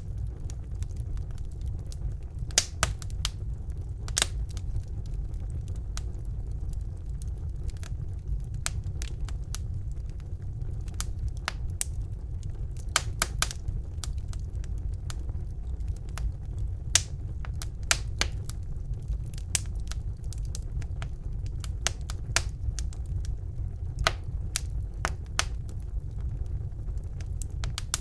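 Wood fire burning in a fireplace: a steady low rumble of the flames with irregular crackles and sharp pops of the burning logs, a few louder snaps scattered through.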